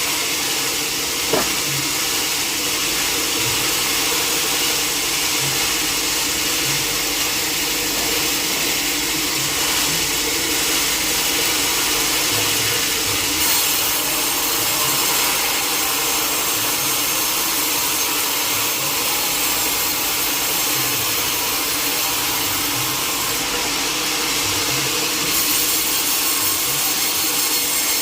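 Sawmill saw cutting through a log, a steady rasping noise of blade through wood, with one sharp click about a second in.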